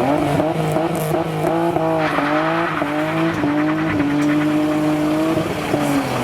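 Toyota Supra engine running loudly, its pitch rising and falling several times as the revs change.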